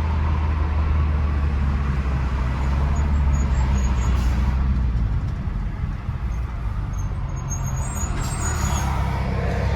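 Straight-piped exhaust of a BMW F10 sedan cruising at highway speed, a steady low note heard from inside the car, mixed with road and wind noise.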